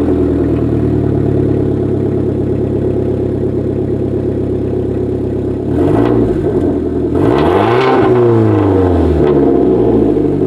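Hyundai Genesis Coupe's turbocharged four-cylinder with a Garrett GT3071 big-turbo upgrade, running hard at high revs on a tuning pull. The engine note holds steady for about five seconds, then its pitch drops and climbs again, rising and falling once more with a rushing hiss over it for a couple of seconds near the end.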